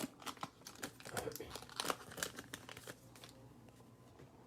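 Plastic trading-card pack wrapper crinkling as it is torn open, a quick run of crackles that stops about three seconds in.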